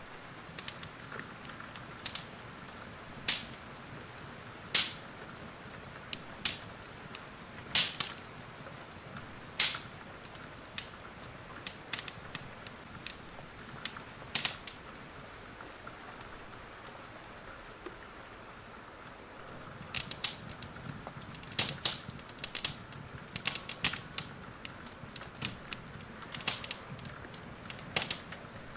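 Wood fire crackling in a fireplace: irregular sharp pops and snaps over a steady hiss of rain. The pops thin out through the middle and bunch together again from about twenty seconds in.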